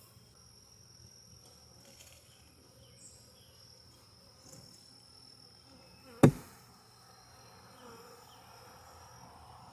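Honeybees buzzing in a low hum around an open hive, under a steady high insect tone. One sharp knock about six seconds in.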